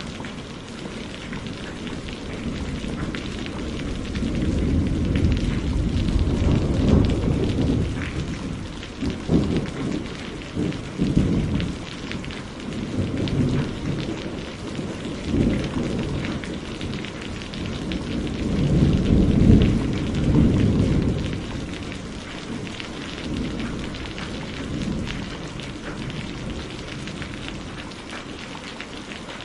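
Steady rain with long rolls of thunder, one swelling a few seconds in with several surges, and a louder one about two-thirds of the way through.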